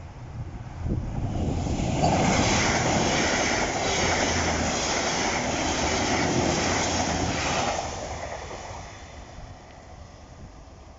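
TransPennine Express Class 185 diesel multiple unit passing through a level crossing at speed: engine rumble and wheel-on-rail noise build up, stay loud for about six seconds as the carriages go by, then fade away.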